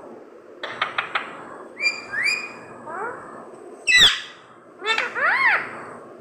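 Pet parrot vocalizing: a quick series of clicks, then several rising and arching whistled calls, with one loud sharp call about four seconds in.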